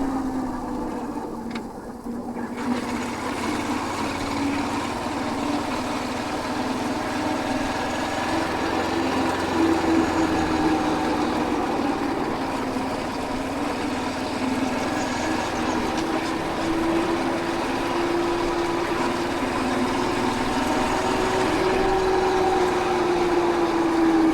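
Royal Enfield Hunter 350's single-cylinder engine running under way, its pitch slowly rising and falling with the throttle, over a steady rush of wind and road noise.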